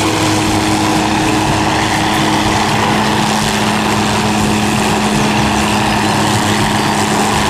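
MD 500 light helicopter hovering, its turboshaft engine and rotors giving a loud, steady drone with a constant whine.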